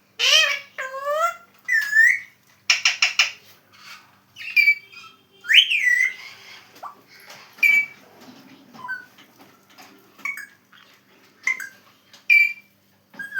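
Alexandrine parakeet whistling and calling in a string of short notes that slide up and down in pitch.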